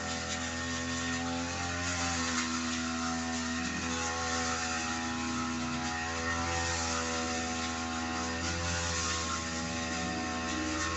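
Small two-stroke engine of a grass cutter running steadily at high speed, with slight shifts in pitch as it works through the grass.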